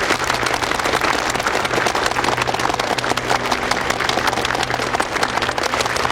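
A group of people applauding together, a dense, even clapping that holds steady throughout.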